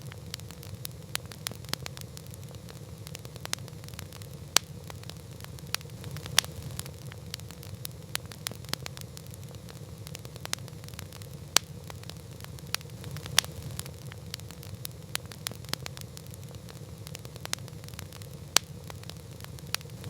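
Campfire burning with a steady low rumble and frequent irregular crackles and pops from the burning wood, a few sharper pops standing out.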